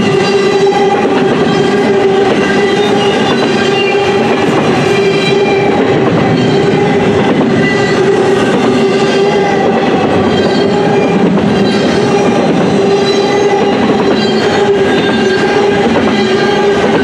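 A long CN double-stack intermodal train's container well cars rolling past at close range, wheels running steadily on the rails. Over the rumble there is a steady ringing tone with overtones that holds throughout.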